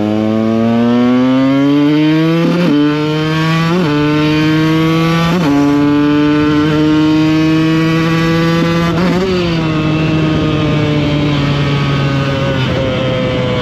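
Two-stroke supermoto engine accelerating hard, its pitch climbing and breaking at gear changes about 2.5, 4 and 5.5 seconds in. It then holds a steady pitch before easing off and falling in pitch after about 9 seconds.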